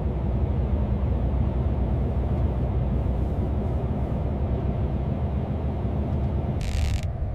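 Steady low rumble of a vehicle, with a short hiss near the end.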